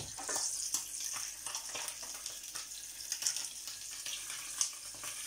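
Hot dogs sizzling in a frying pan: a steady hiss with frequent small crackles and pops.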